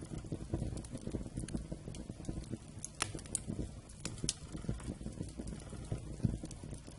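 Wood campfire burning: a steady low rumble of flames with frequent crackles and pops, and a few sharper snaps about three to four seconds in.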